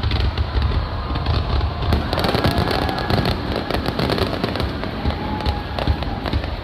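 Aerial fireworks bursting in a rapid barrage: dense crackling over repeated deep booms, starting suddenly.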